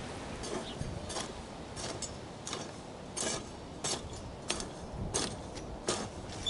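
Hand garden hoe chopping into soil and small weeds in a steady rhythm, one stroke about every two-thirds of a second.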